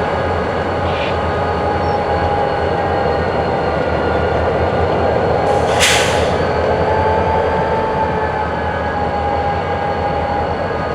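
Freight train cars moving through a rail yard, with a steady rumble and a thin, steady wheel squeal. A short hiss comes about six seconds in.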